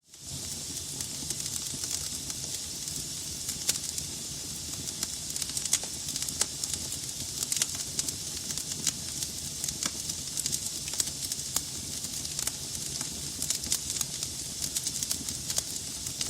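Wood fire burning in a fireplace: logs crackling with frequent, irregular sharp pops over a steady hiss and a low rumble of flame.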